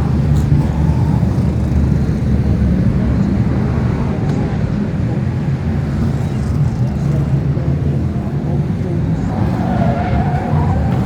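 BriSCA Formula 1 stock cars racing, their engines making a loud, steady, deep noise.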